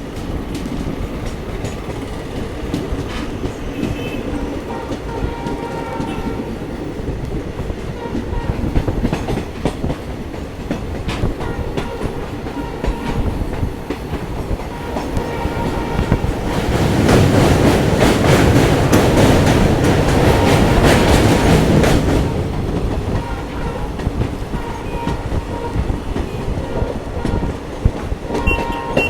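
Passenger train running along the track: a steady rumble with clickety-clack from the wheels, growing much louder for about five seconds past the middle, with a brief high tone near the end.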